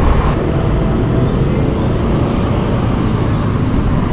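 Steady road traffic noise heard while riding a bicycle along a busy road, with a dense, even low rumble.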